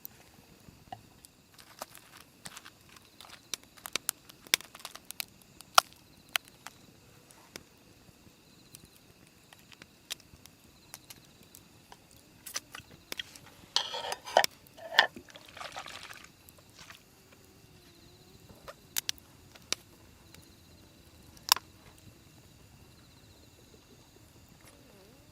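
Scattered sharp clicks and taps, with a short stretch of liquid pouring about two-thirds of the way through.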